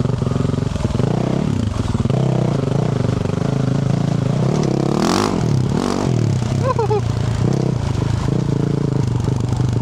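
Yamaha YZ450F's single-cylinder four-stroke engine with a Yoshimura RS-12 exhaust, running under changing throttle as the dirt bike is ridden. About five seconds in there is a sharp rev that rises and falls.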